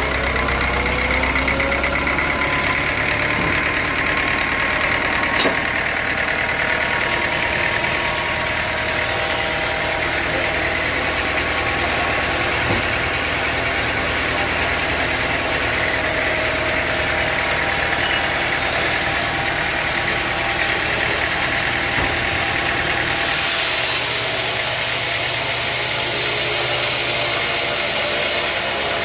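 Sawmill machinery running steadily: a continuous engine-like drone with a whine. About three quarters of the way through the sound changes, with more hiss.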